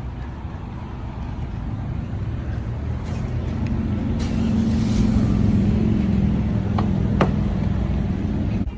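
Car engine and road noise of a moving car, rising in level, with a steady engine hum coming in a few seconds in as the car picks up speed. There are a couple of sharp clicks near the end.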